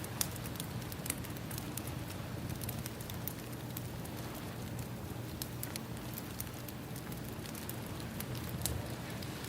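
Ambience track of a crackling wood fire with ocean waves: irregular sharp pops and snaps over a steady low wash.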